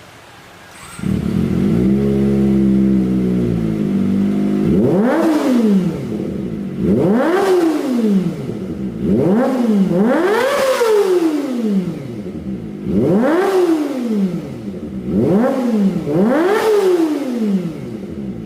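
Kawasaki ZX-25R inline-four engine through an aftermarket exhaust. About a second in it idles steadily, then it is revved about seven times in quick blips, each rising and falling back, before returning to idle near the end.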